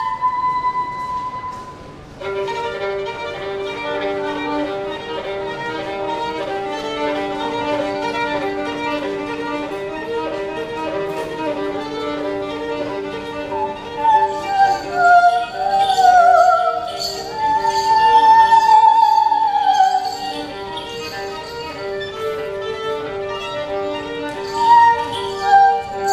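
Violin played live over a steady accompaniment of short repeated notes that comes in about two seconds in; the melody line slides up and down in pitch through the second half.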